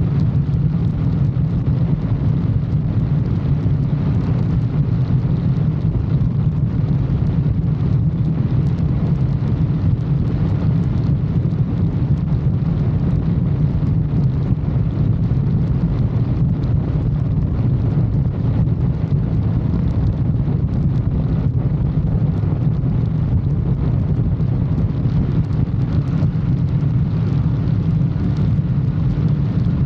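Motorcycle riding at a steady highway speed: a steady engine drone with wind noise on the microphone.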